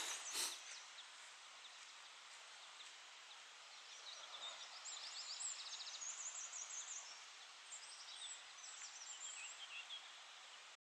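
Faint outdoor hiss. From about four seconds in, small birds sing in quick runs of high chirps and trills, repeating until near the end.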